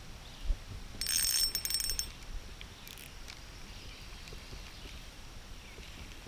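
Fishing reel, a burst of about a second of rapid metallic ticking with a high ring, over faint creek-side background noise. A low thump comes just before it.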